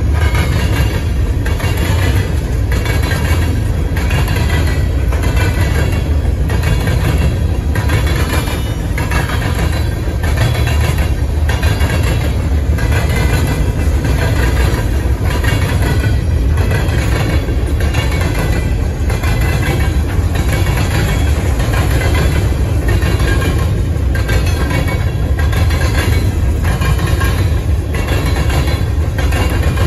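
Covered hopper cars of a long sand train rolling past close by: a loud, steady rumble of steel wheels on rail, with a regular click-clack about once a second.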